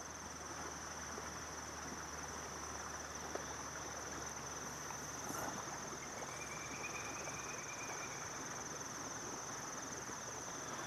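Crickets chirping in a steady, high-pitched chorus, with a fainter, lower insect note joining for a couple of seconds midway.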